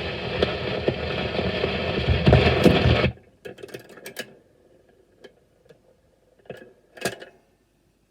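Record player's needle running on past the end of the music of a 78 rpm shellac record: loud surface hiss and crackle with clicks, cut off suddenly about three seconds in. A few scattered clicks and small knocks follow, the loudest about seven seconds in.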